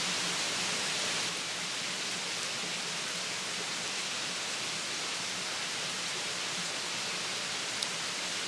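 Steady rushing noise, with one sharp click near the end.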